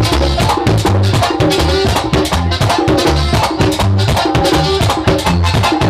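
Live bachata band music: bass notes and busy percussion with a shaker-like scrape keeping a quick, steady beat.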